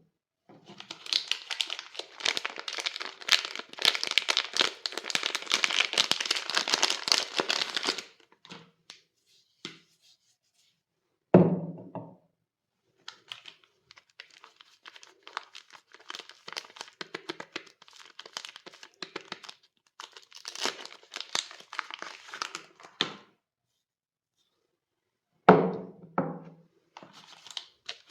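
Soap wrapping being crinkled and torn open in long stretches of dense crackling, with a few dull thuds of bars being set down: one in the middle and two close together near the end.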